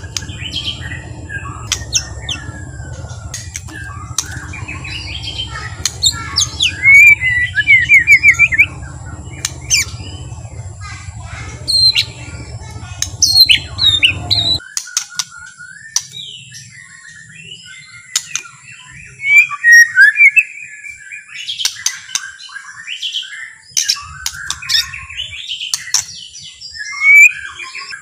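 White-rumped shama singing a varied song of clear whistles, trills and quick chattering phrases. A low background rumble under the song cuts off abruptly about halfway through.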